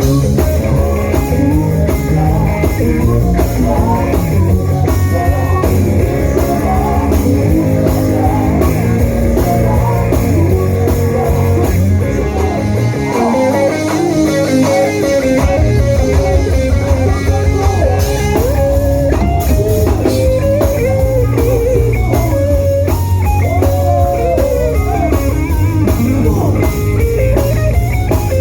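A live praise band playing: electric guitar melody lines over bass guitar and drum kit. About halfway through, the bass and drums drop out for a few seconds, then come back in.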